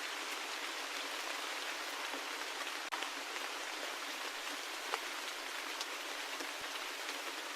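Steady rain falling: an even hiss with scattered individual drop ticks. The level dips for an instant about three seconds in.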